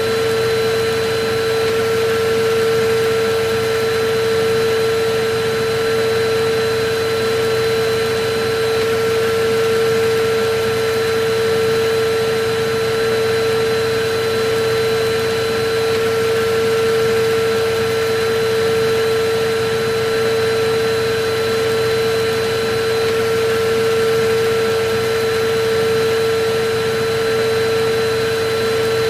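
Electric vacuum cleaner motor running steadily: a constant hum-whine over a rushing air noise, unchanging throughout.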